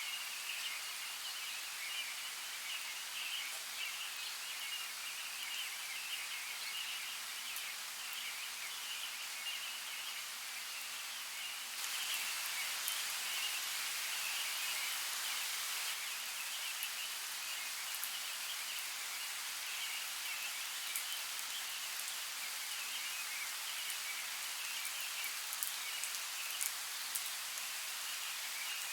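Steady hiss of running water or rain, over a continuous high chirring. The water grows louder about twelve seconds in, and a few sharp drip-like ticks come near the end.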